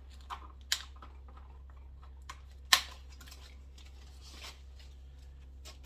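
Handling noises as loose items are cleared off a plastic cart: a few scattered light clicks and knocks, with one sharper knock about three seconds in, over a steady low hum.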